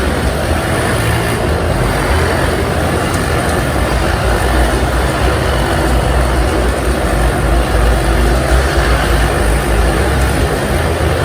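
Motorcycle engines running at speed inside a steel globe-of-death cage, a loud, steady, continuous engine noise.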